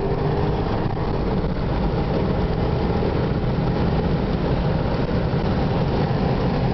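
Porsche Panamera Turbo's twin-turbo V8 at full throttle, heard from inside the cabin with heavy wind and road noise, as the car is wound out toward about 200 km/h. The sound is loud and even throughout.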